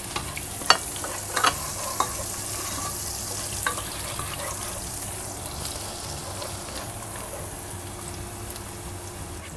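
Chopped onion and garlic sizzling in hot oil in a pot while a spatula stirs them, with a few sharp knocks of the spatula against the pot in the first four seconds.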